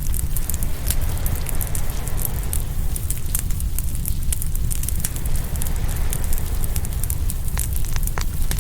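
Open wood fire crackling, with many sharp pops scattered throughout over a steady low rumble.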